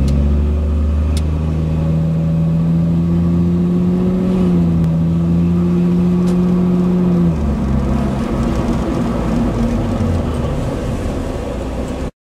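Porsche 996 Carrera 4S flat-six running through a Kreissieg valvetronic exhaust. It holds a steady droning note at constant revs, then about seven seconds in eases off to a rougher, quieter burble. The sound cuts off abruptly just before the end.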